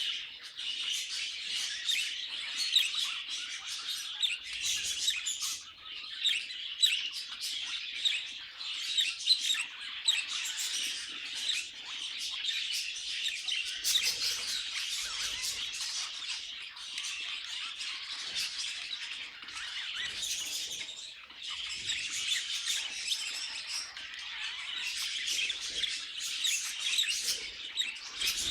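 Budgerigars (budgies) chirping and warbling continuously, a dense flock-like chatter of quick high chirps.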